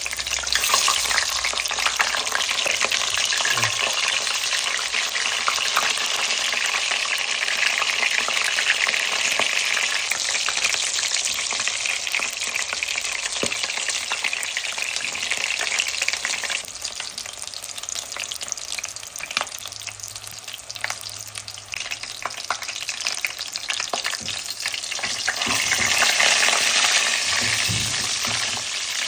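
Curry frying in a pan, a steady sizzle of hot oil with scattered clicks of stirring. The sizzle eases about two-thirds of the way through and grows louder again near the end.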